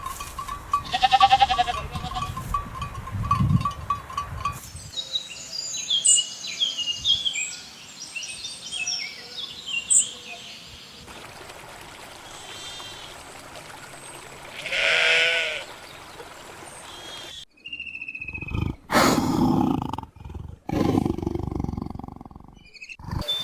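A run of short animal sound clips joined by abrupt cuts: high chirping calls, then one long wavering bleat about fifteen seconds in, then louder animal calls near the end.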